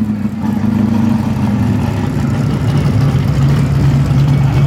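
Car engine running, its note falling over the first couple of seconds and then holding steady at a lower pitch.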